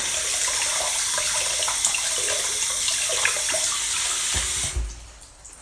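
Water tap running steadily into a sink, then turned off with a low thud near the end, the rush cutting out abruptly.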